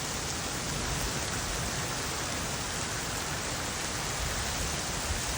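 Heavy rain pouring down steadily: an even, continuous hiss of a downpour close to flash-flood strength.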